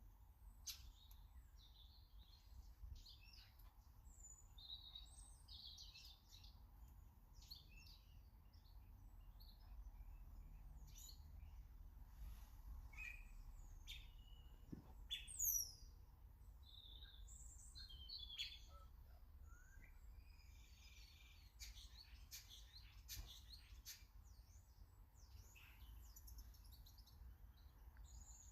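Small garden birds chirping and calling faintly: many short, scattered calls, with one sharp rising whistle about halfway through. A steady low rumble runs underneath.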